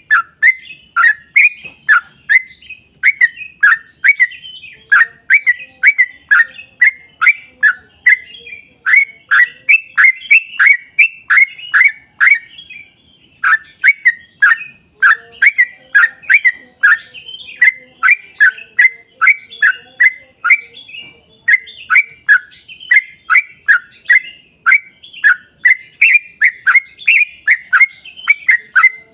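Yellow-vented bulbul (trucukan) singing vigorously: a long, rapid run of short falling notes, about two or three a second, broken by a short pause about 13 seconds in.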